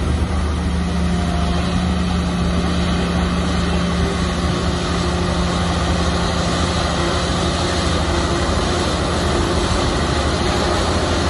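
Large Shantui crawler bulldozer's diesel engine running at a steady pitch.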